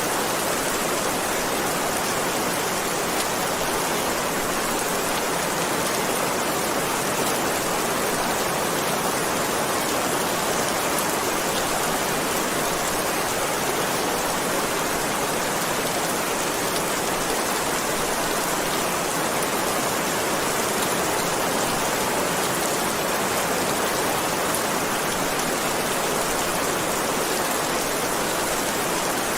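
Heavy rain falling steadily, an even hiss of raindrops on surfaces with no thunder.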